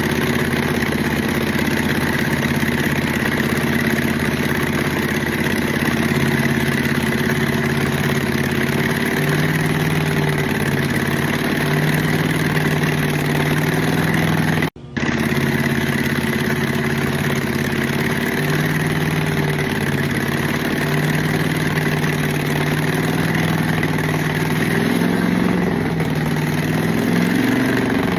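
Chevrolet Z11 big-block V8 running on its first start, idling steadily with small shifts in pitch and a slight rise in revs near the end. The sound drops out for an instant about halfway through.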